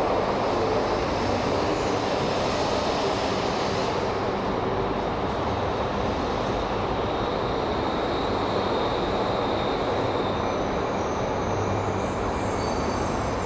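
A 200 series Shinkansen train rolling through a station: a steady, continuous rumble of wheels and running gear, with a faint high tone in the middle and later part.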